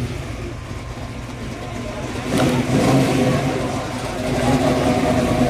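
A car engine running, getting louder about two seconds in as it revs up or comes closer, and staying loud to near the end.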